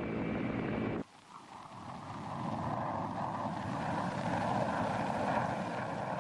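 Aircraft engine noise from archival war footage, a steady drone. It cuts off abruptly about a second in, then fades back up and holds.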